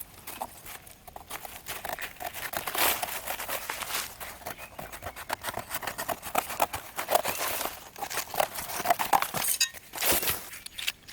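Dense, irregular crinkling and rustling with many small crackles and snaps, a brief lull about ten seconds in, then one more burst.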